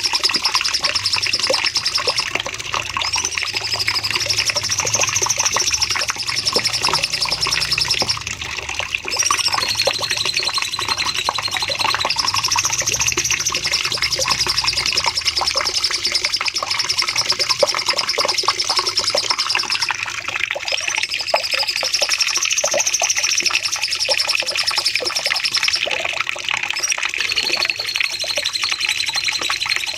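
Cucak cungkok songbird singing a long, unbroken stream of fast trilling notes, with high warbling phrases that rise and fall every few seconds and a brief lull about eight seconds in.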